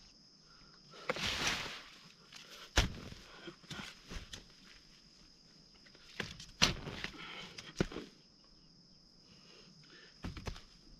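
Hand hoe digging into soil: a scraping rush about a second in, then a few sharp strikes spaced irregularly through the rest. A steady faint high whine runs underneath.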